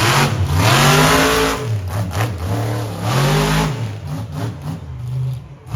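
Monster truck engine revving hard, its pitch rising and falling several times in quick throttle swells.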